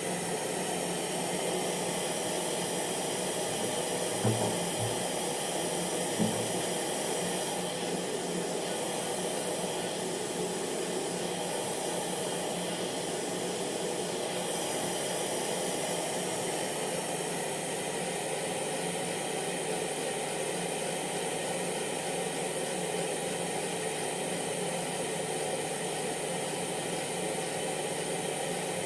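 Hair dryer running steadily: the motor's hum under an even rush of blown air. Two brief low thumps about four and six seconds in.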